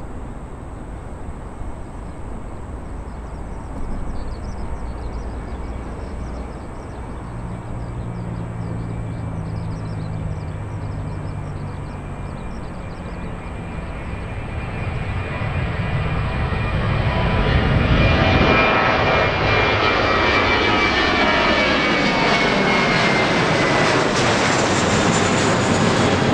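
Airbus A330 airliner's jet engines on landing approach. The rush builds from about halfway through and becomes loud, and the engine whine falls in pitch as the aircraft passes.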